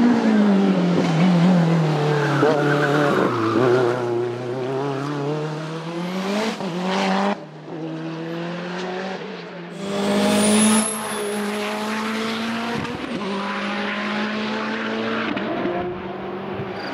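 Racing car engines at full song, the pitch falling and climbing as they go up and down through the gears. The sound changes abruptly about seven and ten seconds in, as one car gives way to another.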